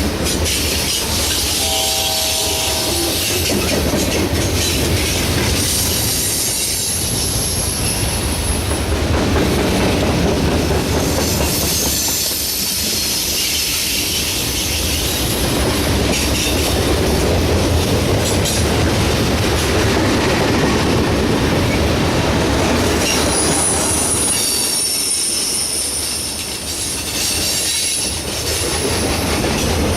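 Norfolk Southern train cars rolling past at close range, a steady rumble with clickety-clack over the rail joints. High-pitched wheel squeal comes in twice, about a quarter of the way in and again near the end.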